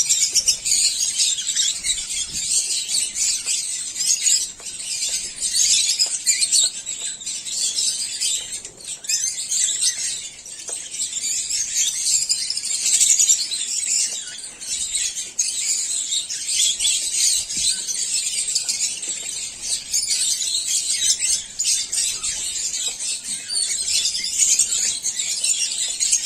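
A flock of caged African lovebirds chattering: many overlapping high, shrill chirps and calls in a dense, unbroken chorus.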